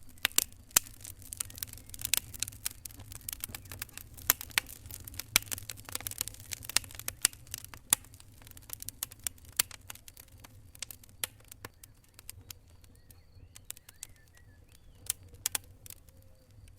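Fire burning in a fireplace, crackling with many sharp pops over a steady low rumble. The pops come thick and fast at first and thin out after about eight seconds.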